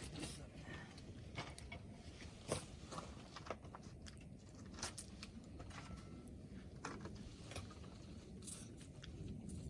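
Wood campfire crackling: irregular sharp pops and snaps of burning wood over a low, steady rush of flame, with one louder pop about two and a half seconds in.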